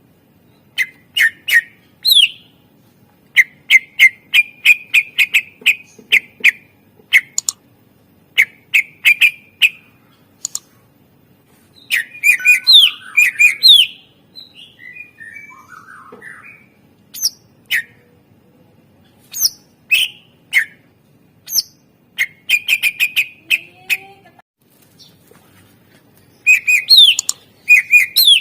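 Cucak ijo (green leafbird) singing in rapid bursts of sharp, repeated chirps, broken by short rising whistles and a softer warbled passage near the middle.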